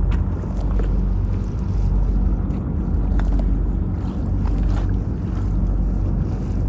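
Boat engine running with a steady low hum, with wind on the microphone.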